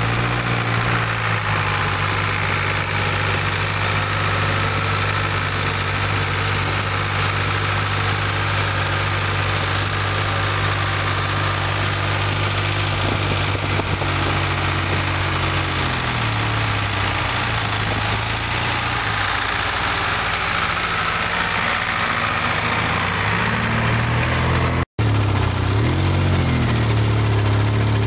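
Antique tractor engine running steadily, its pitch sagging and recovering a little around the middle. Near the end the sound cuts out for an instant and picks up again.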